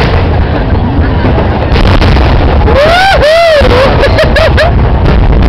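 Fireworks going off, a dense run of booms and bangs that overloads the microphone, with a spectator's voice exclaiming several times from about three seconds in.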